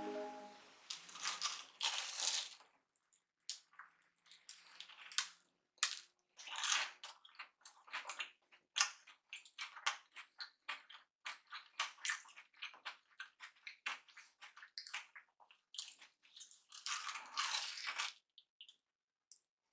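Close-miked biting and chewing of a deep-fried, crumb-coated cheese dog: irregular sharp crunches with short pauses between, and a longer run of crunching near the end.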